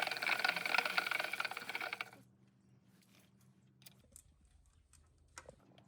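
Rapid mechanical rattling for about two seconds, then a few light clicks and taps.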